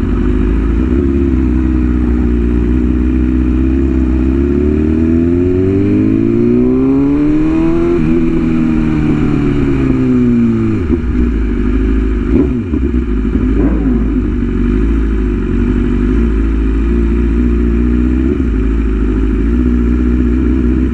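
Inline-four sport motorcycle engine running under way, with low wind rumble on the microphone. The engine pitch climbs steadily from about four seconds in, peaks around eight seconds, and falls back near eleven seconds as the bike accelerates and then eases off. Brief quick pitch changes follow around thirteen seconds.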